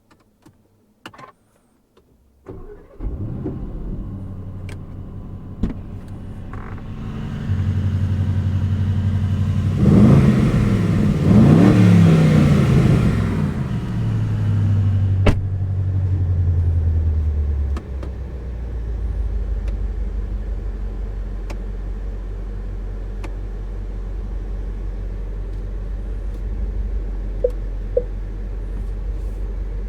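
A few clicks, then the Aston Martin Vantage's 4.0-litre twin-turbo V8 starts about three seconds in and settles into a high idle. It revs up and down a couple of times near the middle, then drops to a lower steady idle.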